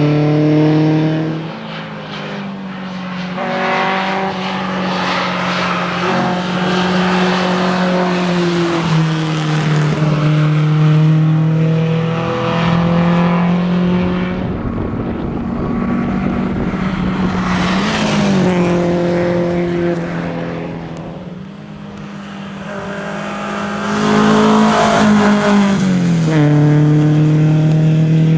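1961 Volvo 122S rally car's four-cylinder engine run hard through the gears, its pitch climbing under acceleration and dropping sharply at each gear change, several times over, with a brief easing off in the middle.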